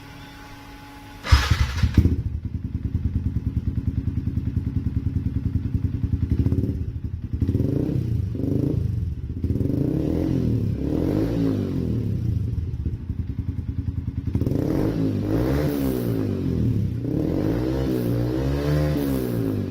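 Yamaha MX King 150 single-cylinder four-stroke with an aftermarket exhaust, starting up about a second in and then idling with an uneven beat. The throttle is blipped several times, the engine revving up and dropping back, in two spells of revving.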